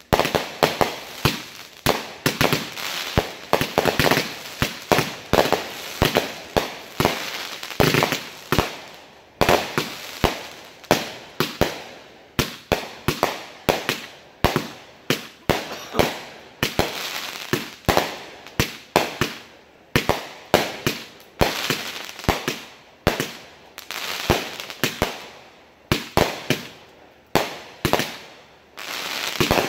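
Consumer aerial fireworks fired as a finale: a rapid volley of sharp bangs from bursting shells, several a second, spaced a little wider in the second half.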